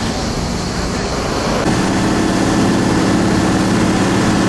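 An engine running steadily, its hum stepping up louder and more even at about a second and a half in.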